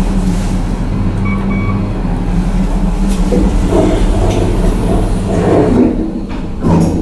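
KONE MiniSpace traction elevator in use aboard a ship: a steady low mechanical hum throughout, with a short beep about a second in and a brief knock near the end.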